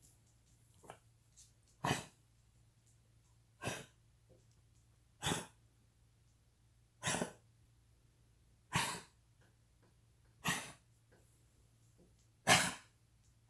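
Cavalier King Charles spaniel coughing: seven single coughs, evenly spaced about every two seconds. It is a cardiac cough from degenerative valve disease, the enlarged heart pressing on the trachea.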